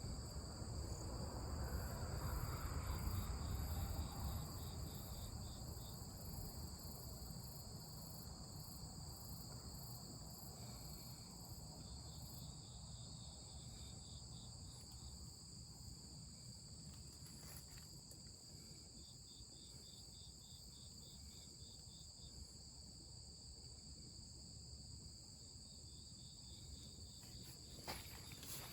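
Insects, crickets among them, chirping steadily at a high pitch, with a second, faster pulsing chirp that comes and goes; a low rumble in the first few seconds fades away.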